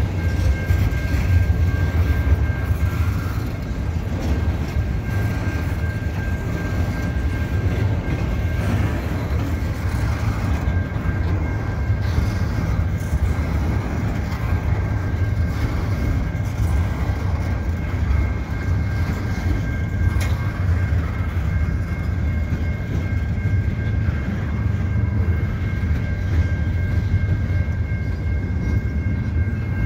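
Double-stack intermodal freight train rolling slowly past, its well cars making a steady low rumble on the rails. A faint steady high-pitched tone runs above it.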